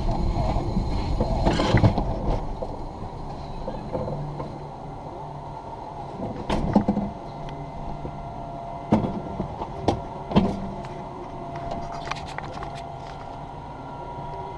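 Alpine coaster sled being hauled up its steel-tube track by the lift: a steady mechanical hum, with sharp clacks and knocks every few seconds.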